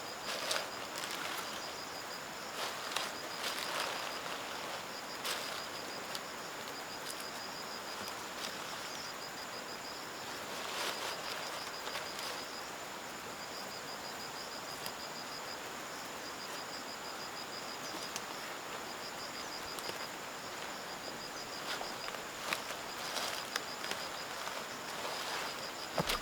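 Insects chirping outdoors: a high pulsing trill that repeats in short trains every second or two over a steady high-pitched insect drone, with occasional light knocks or rustles.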